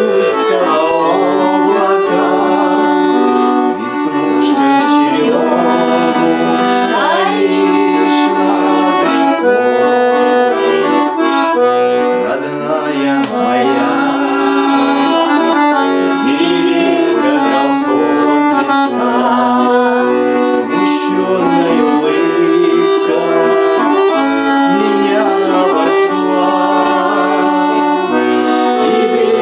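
Accordion playing an instrumental passage of a Russian folk-style song, a melody over steady held chords.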